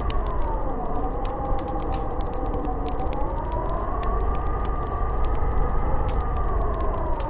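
Snowstorm wind howling, its whistling tone slowly rising and falling over a low rumble, with a constant scatter of small crackling ticks.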